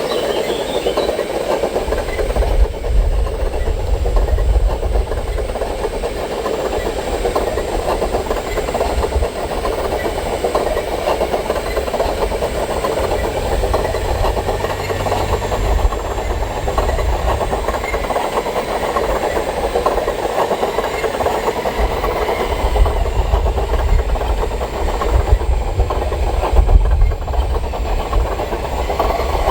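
A machine running steadily with a dense rattling texture, with gusts of low wind rumble on the microphone that come and go.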